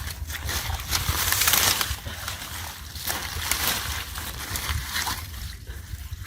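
River water sloshing and splashing in irregular bursts as it is stirred by hand, over a steady low rumble.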